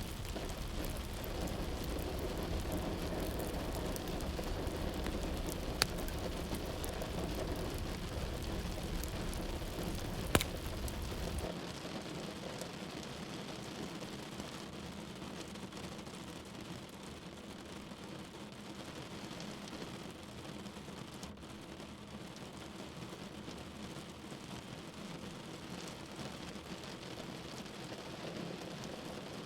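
Steady rain falling, an even hiss with two sharp ticks of drops striking something; a low rumble underneath stops abruptly about a third of the way through.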